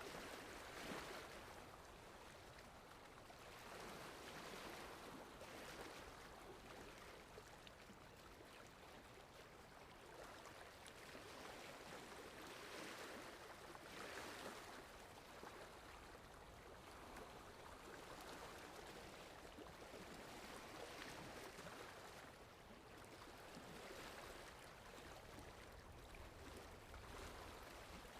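Faint ocean surf washing on a shore: a steady hiss of water with gentle swells that rise and fall every few seconds.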